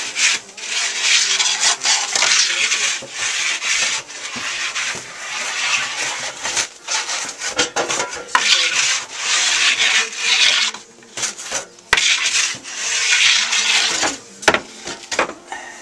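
Several long scraping strokes, each a second or two, of a tool dragged back and forth across the floor of a wood-fired bread oven.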